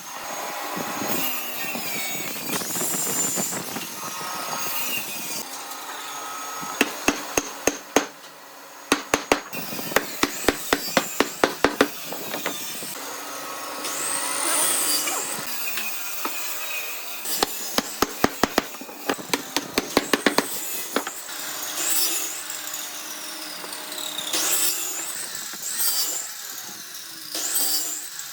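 Hand tools working hardwood: steady scraping and sawing strokes, broken by three runs of quick sharp knocks about four a second.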